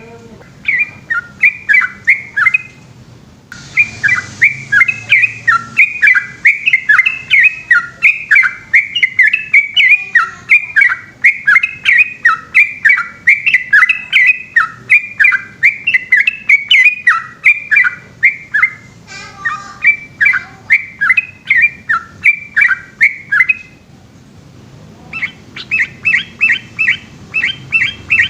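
Yellow-vented bulbul singing a long, fast run of repeated warbling notes, several a second, broken by short pauses near the start and again about four seconds before the end.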